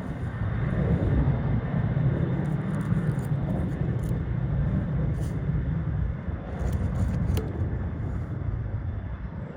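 Jet aircraft engines rumbling as a plane passes, a steady low rumble that swells about a second in and slowly eases.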